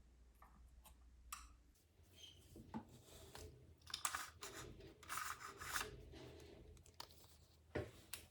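Intermittent scraping and rubbing with scattered sharp clicks and light knocks, as of tools and small parts being handled on a workbench.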